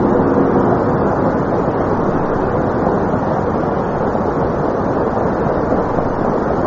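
Studio audience applause: a dense, steady clapping that slowly eases off.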